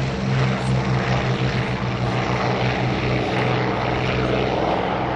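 Allison V-12 piston engines of early-model P-51 Mustangs running loudly, a low propeller-driven drone whose tone wavers and flutters, over broad engine and airflow noise.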